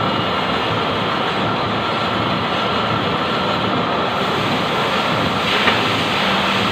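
Steady mechanical running noise with a faint constant high whine, and a short brighter hiss and a small knock about five and a half seconds in.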